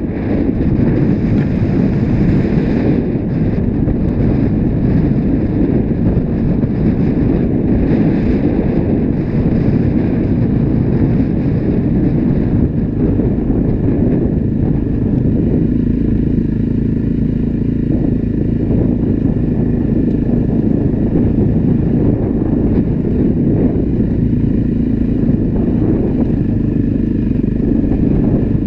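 Dirt bike engine running steadily, heard close up from on board while riding over rough, stony ground.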